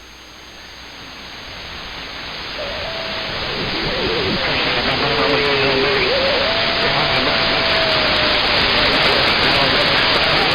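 CB radio receiver static: a steady hiss of band noise that swells up over the first few seconds after a transmission drops out, with faint wavering whistles from other stations' carriers in the middle.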